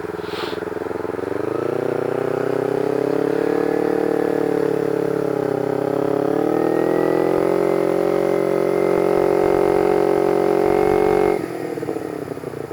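Motorcycle engine pulling under throttle, its pitch climbing from about a second in, dipping briefly midway, then climbing again. The throttle closes suddenly near the end and the engine note drops.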